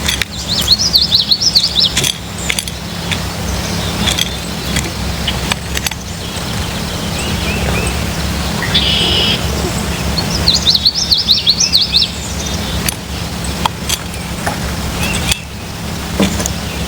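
Songbirds singing outdoors: two quick phrases of rapid high up-and-down notes, each about a second and a half long, with scattered short chirps between them, over a steady low hum.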